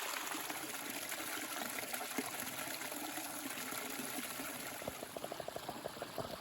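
Shallow stream water trickling and running steadily. A quick run of light ticks comes near the end.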